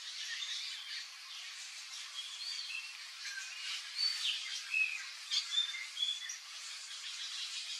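Birds chirping and calling over a steady high chatter, with a run of short, clear whistled notes and a few sharp chips, busiest about halfway through.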